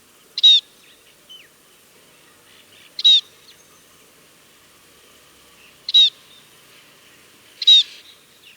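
Scaly-breasted munia calling: four short, high calls spaced about two to three seconds apart.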